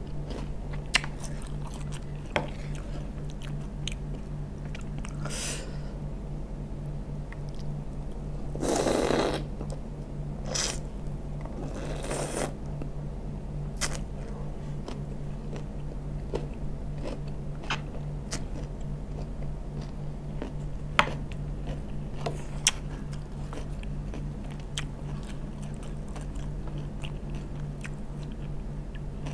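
Close-up chewing and crunching of asinan sayur, Indonesian pickled raw vegetables in a sauce: many short crisp bites and clicks, with two longer, louder noisy bursts about nine and twelve seconds in. A steady low hum runs underneath.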